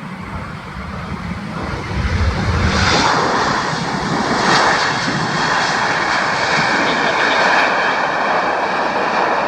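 Jet engines of an Air Canada Boeing 787-9 Dreamliner passing close on its landing approach. The noise builds over the first few seconds, then holds loud and steady.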